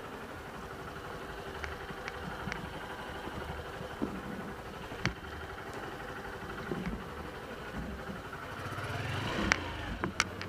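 Motorcycle engine idling steadily, then revving up with a rising pitch near the end as the bike pulls away. A few sharp clicks are heard over it.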